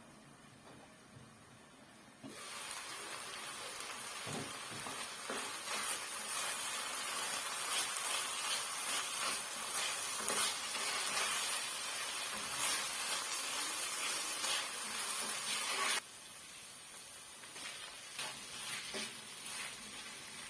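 Food sizzling in hot oil in a frying pan as it is stirred, with scattered clicks from the utensil. The sizzle jumps louder about two seconds in and drops abruptly to a quieter sizzle a few seconds before the end.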